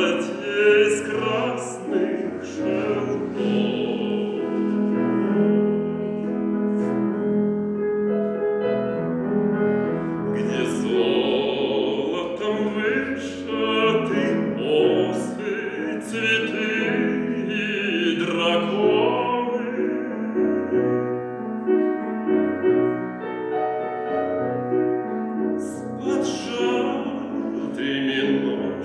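A man singing a slow song in an operatic style, with piano accompaniment.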